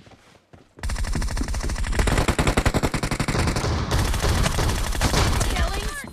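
Video-game automatic gunfire: near quiet for the first second, then a long rapid burst of shots that runs until near the end, where a wavering high call starts over it.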